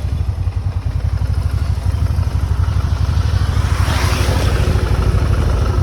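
Motorcycle engine idling with a steady low throb, and a brief rushing swell of noise about four seconds in.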